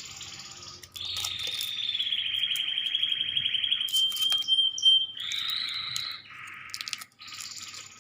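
A songbird singing a run of high trilled phrases, each about a second long, that jump between pitches, with light clicks and taps scattered through.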